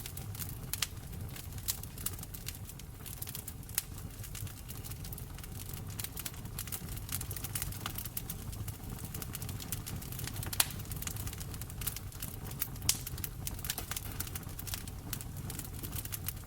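Wood fire burning in a fireplace: a steady low rumble of flames under irregular crackles and sharp pops, the loudest pop about ten and a half seconds in.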